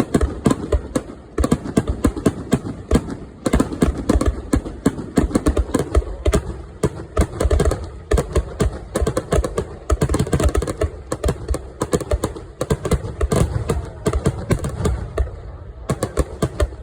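Aerial fireworks bursting in a rapid barrage: a dense run of sharp bangs and crackles, several every second, thinning a little near the end.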